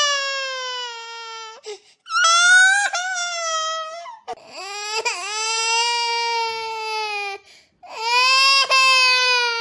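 Cartoon character's crying sound effect: a run of long, high-pitched wailing sobs, each held for one to three seconds and slowly falling in pitch, with short breaths between them. A wail trails off near the start, two more follow, and a fourth begins near the end.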